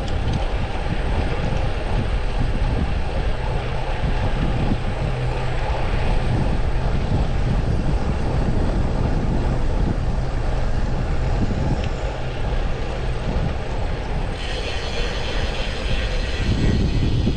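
Wind rushing over the microphone of a moving road bicycle, mixed with road and traffic noise. A steady low hum runs through the middle, and the sound turns hissier near the end.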